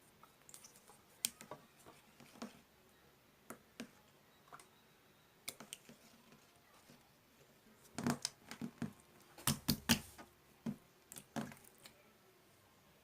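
Clear slime being pressed and squeezed by hand, making irregular sharp clicks and pops, with a quick flurry of them about eight to ten seconds in.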